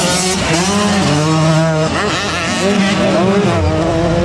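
Several motocross bike engines at race speed, overlapping, each revving up and easing off again and again.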